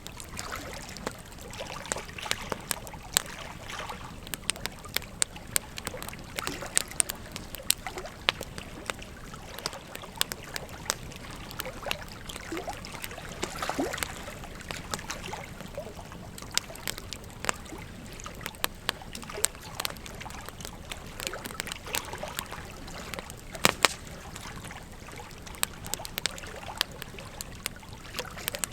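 Wood fire crackling, with frequent irregular sharp pops, over the steady rush and trickle of a river. Two louder pops come close together about three-quarters of the way in.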